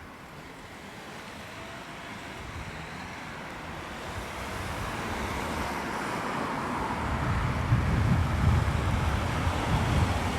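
Outdoor rushing noise that swells steadily louder over several seconds, with wind buffeting the microphone as low, irregular rumble in the last few seconds.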